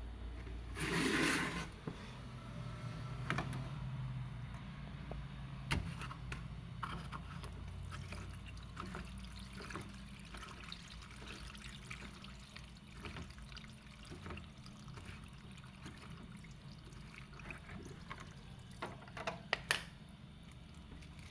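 Water running or being poured, over a steady low hum with scattered small clicks and knocks, and a louder burst about a second in.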